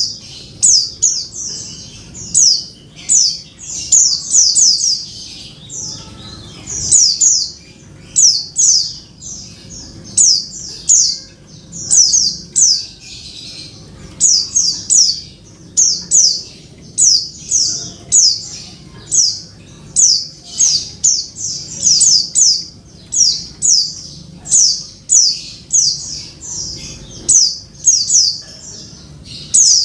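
Female white-eye (pleci) calling: short, high notes that sweep downward, in quick clusters of two to four, repeating about once a second. It is the female's call to a male, used to lure a quiet male back into song.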